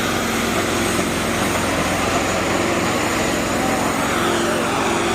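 Diesel engines of Sonalika tractors running steadily and hard.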